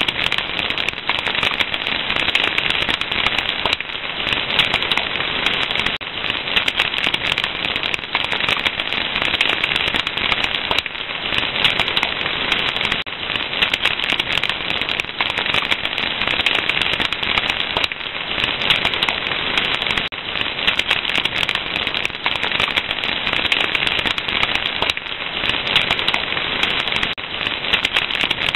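Wood fire crackling steadily: a dense, unbroken stream of small pops and snaps.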